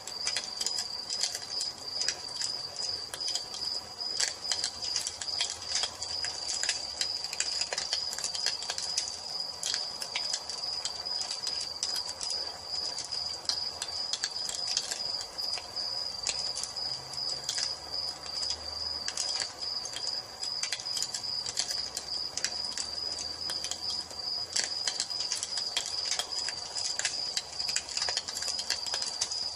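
Wood fire crackling with many small irregular pops, under a steady high-pitched cricket trill.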